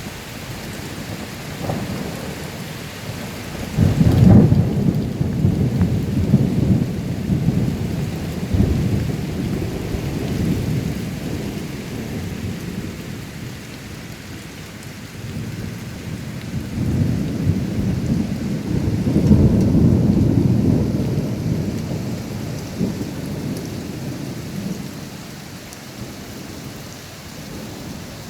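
Thunder rumbling over steady rain: a first peal starts sharply about four seconds in and rolls on for several seconds before dying away, then a second long rumble builds in the second half and fades out.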